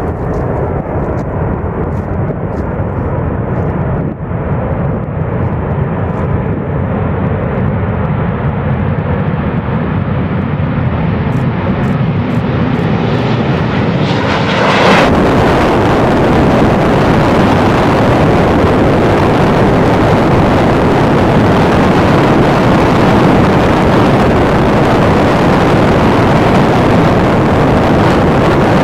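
B-2 Spirit stealth bomber's four turbofan jet engines, a loud steady roar. The hiss climbs slowly over the first half, then about halfway through it jumps suddenly to a louder, fuller roar that holds steady.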